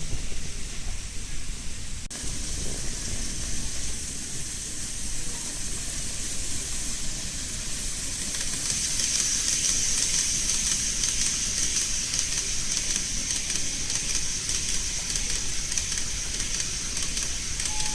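Model freight train running on its track: a steady high hiss of the wheels and motor, with quick clicking over the rail joints, getting louder about halfway through as the train comes close.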